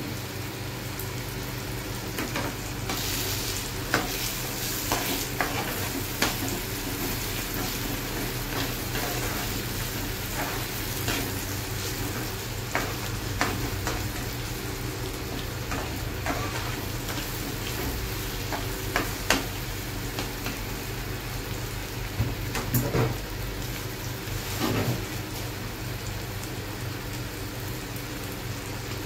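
Eggs frying in masala in a black pan, sizzling steadily, while a spatula scrapes and knocks against the pan as the eggs are broken up and stirred into bhurji.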